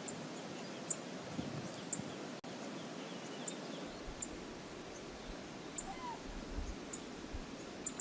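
Steady rushing water of the Brooks River, with short high-pitched chirps every second or so. The sound cuts out for an instant about two and a half seconds in.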